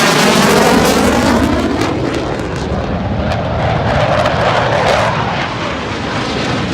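Blue Angels F/A-18 Hornet jet passing low and fast, its loud jet noise sweeping in pitch as it goes by, then settling into a steady rush that slowly fades.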